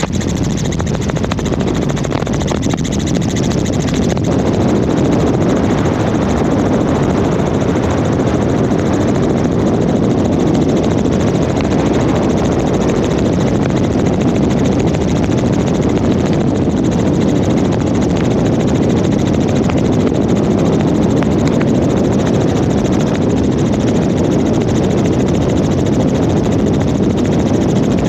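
Helicopter in flight: steady, loud drone of rotor and engine noise, unchanging throughout.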